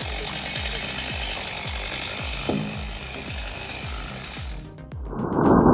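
Music with a steady thumping beat over the high, steady noise of a chainsaw cutting wood. About a second before the end it cuts abruptly to a much louder, deeper rushing machine noise.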